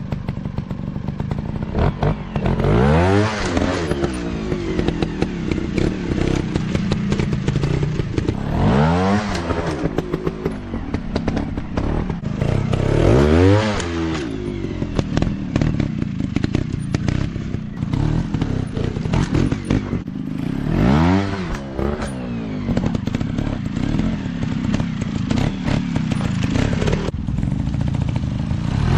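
Dirt bike engine running hard over rough ground, revving up and dropping back several times: four big rises and falls in pitch, with a rattly, uneven drone between them.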